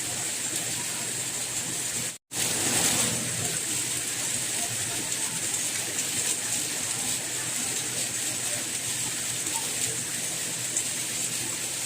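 Steady rain falling, an even hiss, with a momentary dropout to silence about two seconds in.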